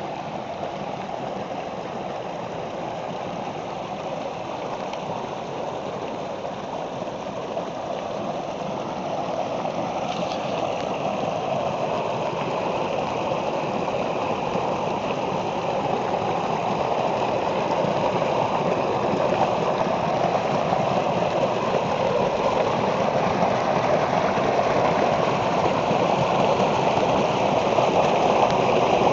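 Running water rushing steadily, growing gradually louder.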